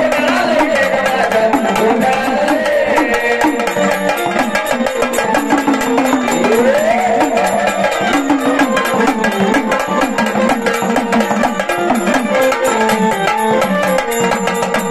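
Gondhal folk music: fast, dense drumming with a melody line that bends and glides over it.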